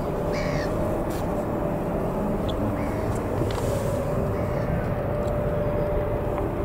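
A steady low rumble with a faint steady hum through it, and a bird calling a few times in short calls.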